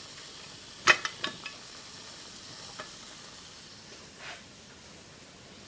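Steady faint hiss of steam from a Mamod TE1A live-steam model tractor as its boiler builds pressure, with a few sharp clicks and knocks about a second in, and another near three seconds, as the model is handled and set down.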